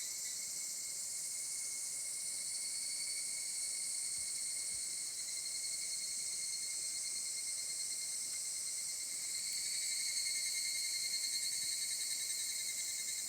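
Steady chorus of insects trilling in the summer forest, several high-pitched layers going on without pause.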